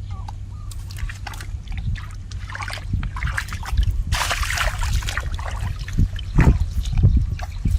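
Shallow water sloshing and splashing as hands work through it, with scattered small clicks and drips and one longer, louder splash about four seconds in.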